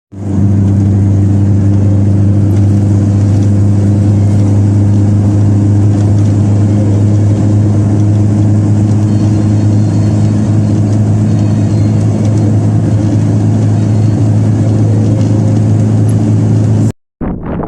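Steady low engine drone, like a vehicle running at constant speed, holding one pitch throughout and cutting off abruptly near the end.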